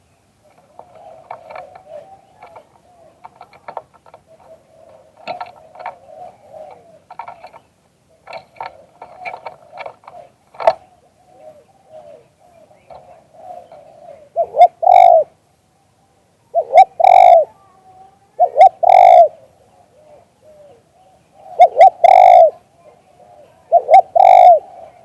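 Spotted dove cooing: soft, low, rambling coos at first, then from about halfway a run of loud coo phrases, each a couple of seconds apart.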